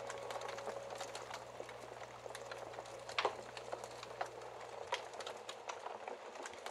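Wood fire crackling, with irregular small pops and one louder pop about three seconds in. The tail of a held musical note fades out in the first second.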